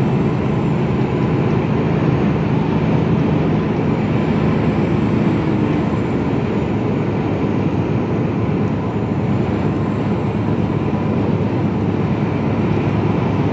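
Mercedes-Benz Actros lorry heard from inside the cab while driving: steady engine and road noise.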